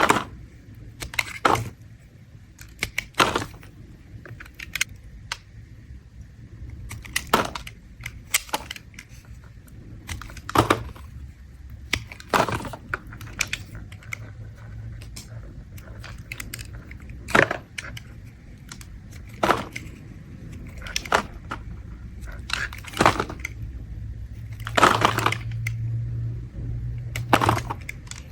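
A blade scraping a bar of soap in short, crisp strokes, about fifteen of them spaced unevenly a second or a few seconds apart.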